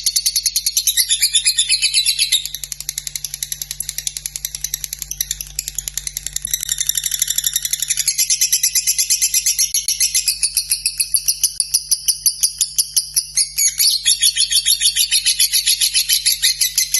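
Lovebird singing a long unbroken 'ngekek' chatter: a fast run of high clicking notes, many to the second, that drops in loudness a couple of seconds in and builds back up about halfway through.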